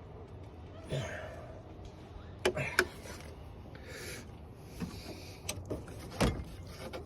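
A few scattered knocks and clicks with some rubbing as the radiator fan assembly is worked loose by hand.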